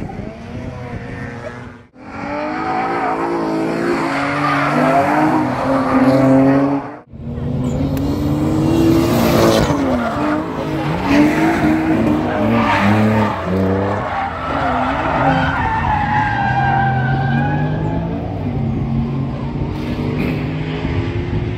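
Race car engines revving up and down on track with tyres squealing, the sound cutting off abruptly about 2 and 7 seconds in and resuming.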